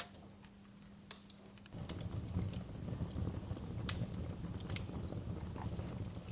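Wood fire in a fireplace crackling with scattered sharp pops, joined about two seconds in by a low rumble of burning flames; one louder pop near the middle.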